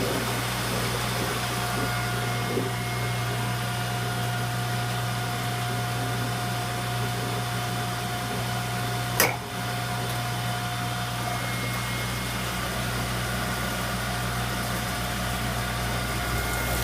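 Commercial pull-down dishwasher running with a steady mechanical hum, a thin steady tone over it for several seconds and a single sharp click about nine seconds in.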